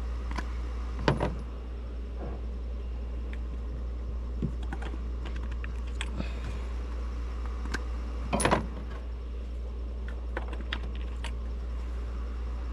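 Scattered small clicks and clinks of spark plugs and hand tools being handled, with two louder knocks, one about a second in and one about eight seconds in. A steady low hum runs underneath.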